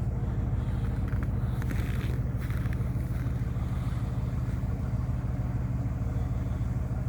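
Truck engine idling steadily, an even low hum with rapid regular firing pulses.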